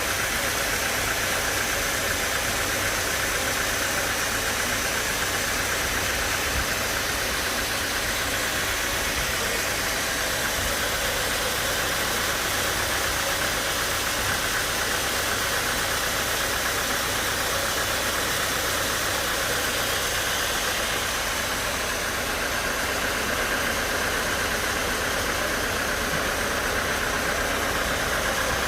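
Sawmill saw and its motor running steadily, sawing through a large log: a continuous mechanical hum with a high whine, no breaks.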